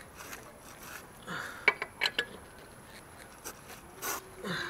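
Wheel nuts being tightened with a wrench: a few sharp metallic clicks and clinks, with a brief rustling burst near the end.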